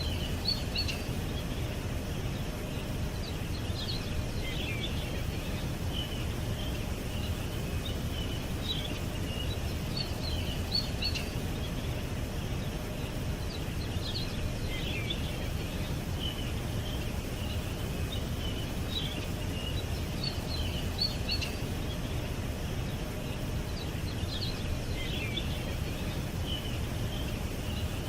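Songbirds chirping and trilling in short high phrases every few seconds over a steady low rumble of background noise.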